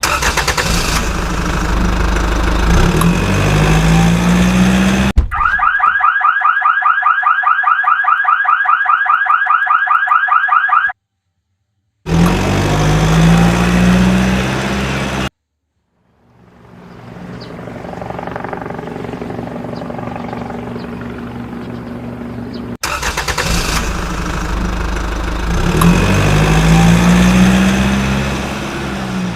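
A series of vehicle sounds cut together with two short silent gaps. A loud engine note rises in pitch three times. Between the first two, a fast-pulsing alarm-like tone repeats many times a second for about six seconds, and later a steadier engine hum fades in.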